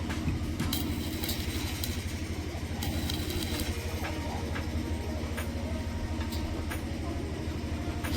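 An engine running steadily with a fast, even low throb, with scattered light clicks and knocks over it.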